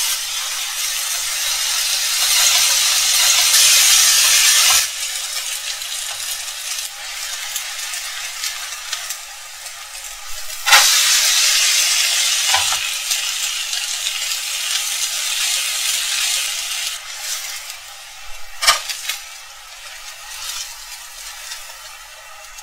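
Grated potato pancake frying in hot oil in a nonstick pan: a steady sizzle, loudest for the first five seconds and swelling again after a sharp knock about eleven seconds in. Two more sharp knocks come later.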